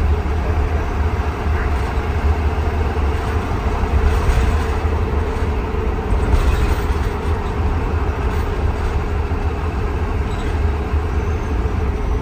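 Cabin noise of a 2020 Blue Bird Vision school bus on the move: a steady low engine and road rumble with a constant higher hum over it.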